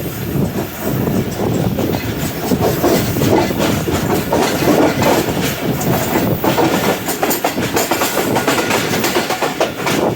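Train cars rolling past at close range, their wheels clattering over the rail joints in an irregular clickety-clack.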